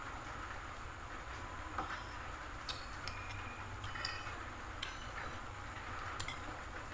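A spoon clinking against a bowl a handful of times, short light clicks with a brief ring, over a steady background hiss.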